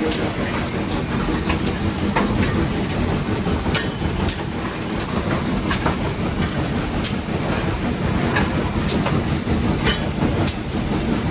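Nevada Northern No. 81 steam locomotive running, heard from the cab: a steady heavy rumble with sharp clicks from the wheels on the track every second or so.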